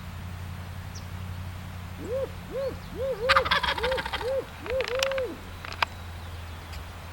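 A man's imitation owl hoot, a rhythmic run of hoots ending in a drawn-out one, used as a locator call for wild turkeys. Partway through, a wild turkey gobbler answers with a rattling gobble, and a camera shutter clicks shortly after.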